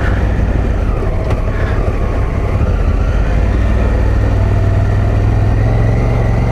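Adventure motorcycle's single engine running at a steady cruise, heard from the rider's position, with steady wind and tyre noise over it.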